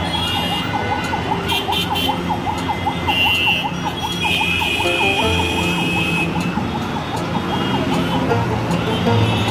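A rapidly warbling siren, its pitch rising and falling about three times a second, over steady traffic noise, with brief higher horn-like tones about a third of the way in and near the end.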